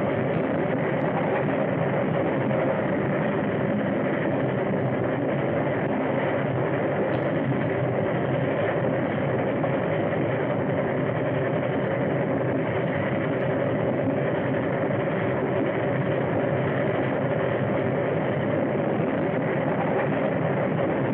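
Train running at speed on the rails: a steady, unbroken rushing noise with no clear rhythm.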